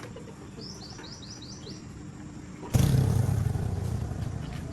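A small bird gives a quick run of about seven short, high chirps. Near three seconds in, a much louder, steady mechanical noise with a low hum starts abruptly and keeps going.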